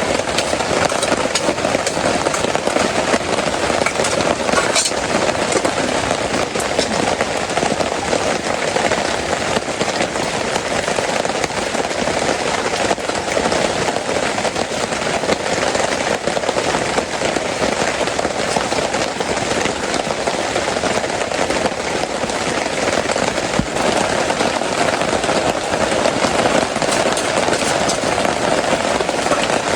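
Heavy rain falling steadily on a small awning, a dense, even crackling patter.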